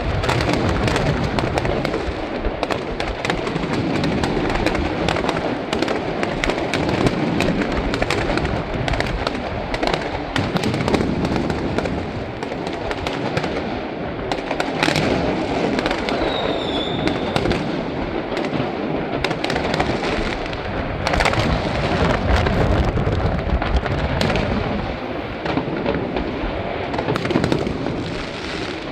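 Aerial fireworks going off in a dense, continuous barrage of bangs and crackling, with a brief falling whistle about halfway through.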